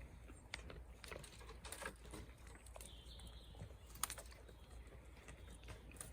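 Goats chewing and biting on Leylandii wood and foliage: faint, irregular crisp clicks and crunches.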